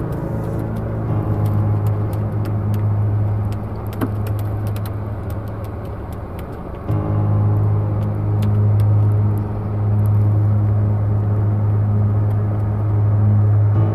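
Car engine running with a steady low hum, heard from inside the car. The hum dips for a moment about seven seconds in and comes back a little louder.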